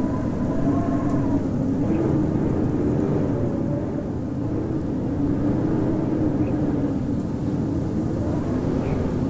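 Howling winter wind: a steady rushing blow with several whistling tones that slowly waver up and down in pitch.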